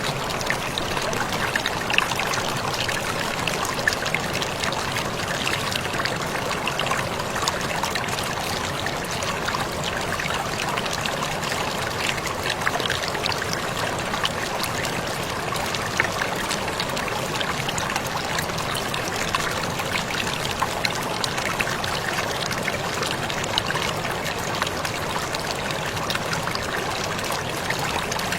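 Waterfall pouring steadily: a constant rush of falling water with many small splashes and drips through it.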